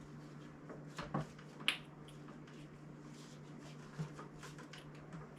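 A few short, sharp clicks and taps from tools and parts being handled under a car, the loudest about a second and a half in, over a steady low hum.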